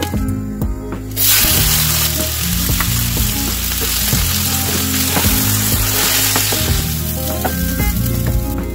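Rice frying in hot oil in a nonstick pan: a loud sizzle starts suddenly about a second in as the rice meets the oil, and goes on while a wooden spatula stirs it, easing somewhat near the end.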